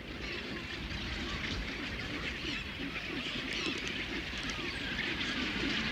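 Crowded seabird colony of penguins, albatrosses and cormorants: a steady din of many birds calling over one another, with honking and squawking calls overlapping throughout.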